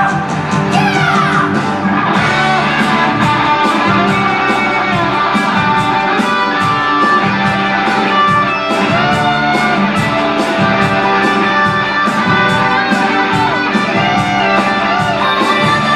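Rock band playing an instrumental passage: electric guitar lead with sliding, bent notes over bass guitar and a steady drum beat, with no vocals.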